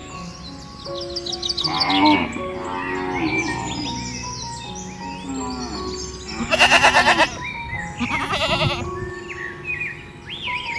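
Background music with farm animal calls mixed over it, including a loud wavering bleat about two-thirds of the way through.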